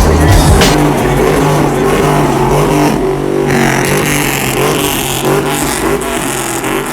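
A vehicle engine running steadily, with a hissing rise in the upper range about three and a half seconds in.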